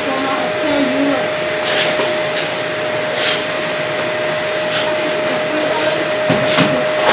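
Canister vacuum cleaner running steadily, a constant motor whine over the rush of air, as its floor nozzle is worked over carpet.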